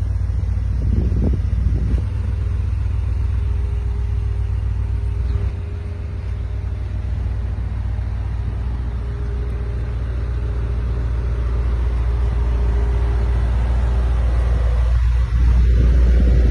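Brabus-tuned G-Wagen pickup's twin-turbo V8 driving off, a deep steady rumble with a faint hum above it. It grows louder over the last few seconds, with a step up near the end.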